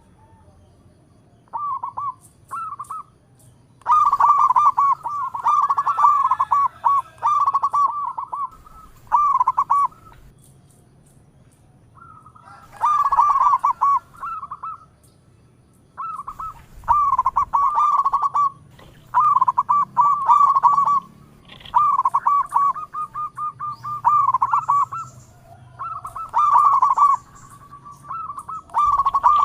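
Zebra dove (local perkutut) cooing: bursts of quick, rolling notes on much the same pitch, each a second or two long, repeated with short pauses between.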